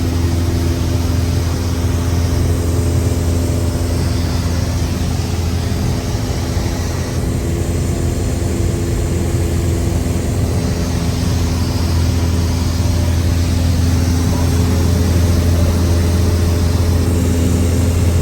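Cessna 172's engine and propeller droning steadily in flight, loud and unbroken, with a deep low hum and a few steady higher hum tones on top.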